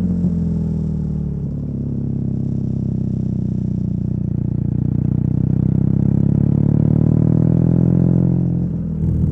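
BMW R nineT's air/oil-cooled boxer twin, fitted with a Competition Werkes slip-on exhaust, running on the move. Its note rises slowly in pitch and loudness, then drops briefly near the end as the throttle eases or a gear is changed.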